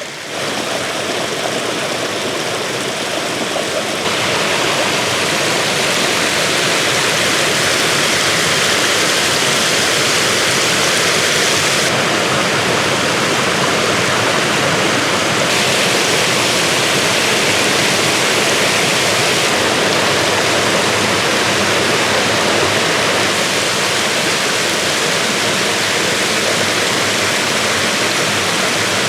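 Steady rushing and splashing of water from a small waterfall that falls in several separate streams into a creek. It gets louder about four seconds in, then holds steady.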